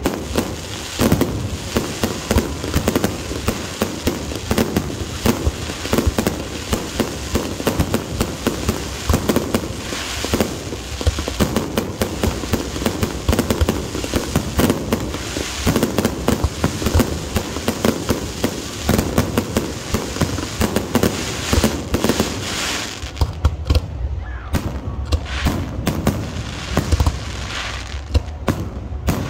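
Fireworks display: a dense, continuous run of bangs and crackling. In the last several seconds deeper booms dominate.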